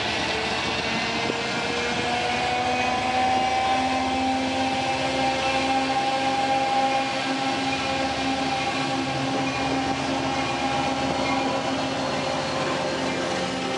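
Long Island Rail Road diesel locomotive hauling bilevel coaches past the platform: a steady engine drone with a whine that rises slowly in pitch, over the rumble of the train.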